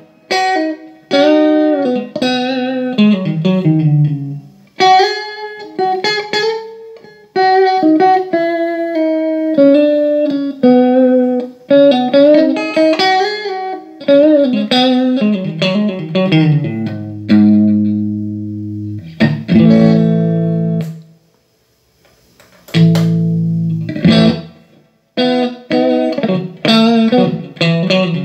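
Electric guitar played through a Laney Iron Heart IRT30 amplifier in a sound test after a repair for signal cutting out: runs of single notes with slides, and held chords, with a short pause about three quarters of the way through.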